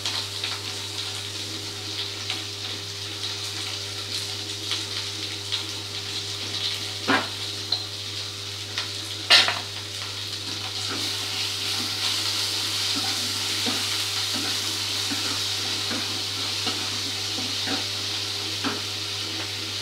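Diced onions, capsicum and green chillies sizzling steadily in oil in a nonstick wok, with scattered small clicks and two sharper knocks about seven and nine seconds in. A steady low hum runs underneath.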